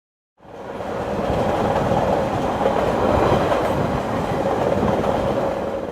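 A train running along the track, fading in over the first second and then steady until it cuts off at the end.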